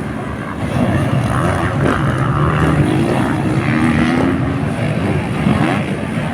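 Motocross dirt bike engines revving, their pitch rising and falling as the throttle opens and closes.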